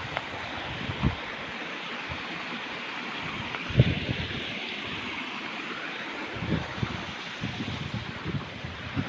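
Waterfall rushing steadily, with a few brief low thumps on the microphone: one about a second in, a stronger one near four seconds, and several more in the last few seconds.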